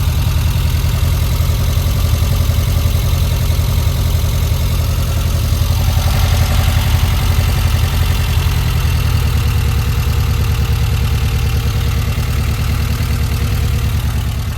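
Freshly built 1904cc stroker air-cooled VW flat-four with a high-lift C95 cam, idling steadily, a little louder around six to seven seconds in.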